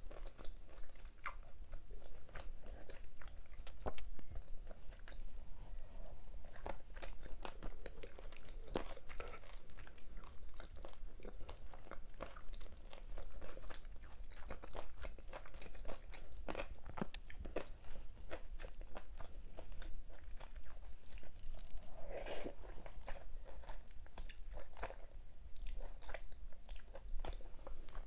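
A person eating close to the microphone: steady chewing with many small, irregular mouth clicks and smacks, and a fuller, louder mouth sound about three-quarters of the way in.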